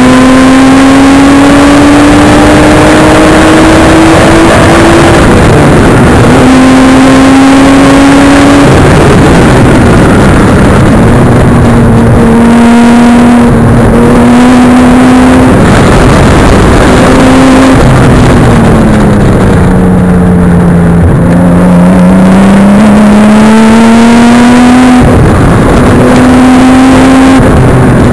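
Nissan Skyline straight-six engines at hard throttle on track: the GTS-t carrying the microphone, with the GTR close behind. The engine note climbs through each gear, drops at gear changes about five and nine seconds in, and falls lowest for a corner about two-thirds through before climbing again, over heavy wind and road noise.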